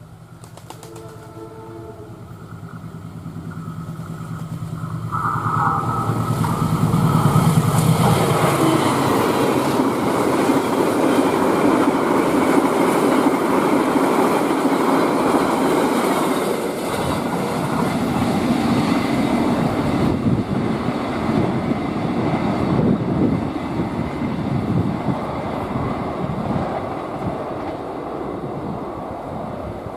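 A diesel-hauled passenger train passing at high speed: the locomotive's engine grows louder over the first seven seconds or so, then the rush and rattle of the carriages on the rails carries on, slowly fading.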